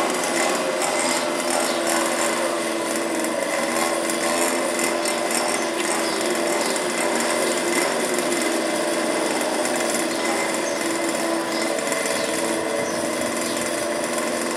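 Two-stroke petrol engines of 1:5-scale FG radio-controlled race cars buzzing at high revs, more than one at different pitches, the revs rising and falling as the cars lap.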